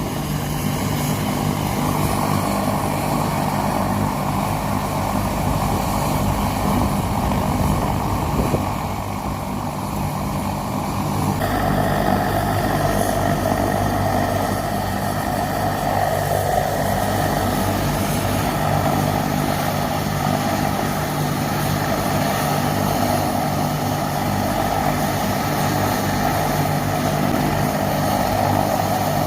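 Trauma helicopter's turbine engine and rotors running steadily while it stands on the ground. About eleven seconds in the sound shifts, with a louder hiss and whine coming in above the steady low drone.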